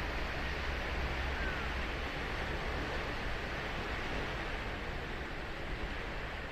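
Ocean waves washing onto a sandy beach: a steady rush of surf with no single break standing out.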